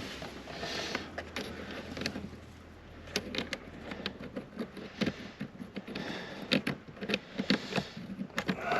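Scattered clicks, light knocks and brief scraping of hand work on screws and plastic dashboard parts under a car's dashboard.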